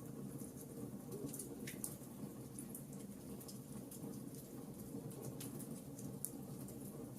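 Wood fire burning in a fireplace: a steady low rush of flame with small crackles scattered irregularly, and two louder pops, one about two seconds in and one about six seconds in.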